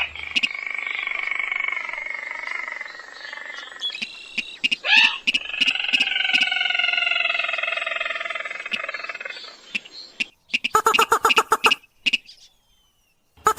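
Recorded rail or crake call used as a hunting lure: a long, harsh call of slowly falling notes with a short break about five seconds in. A fast run of clicking notes follows near the end.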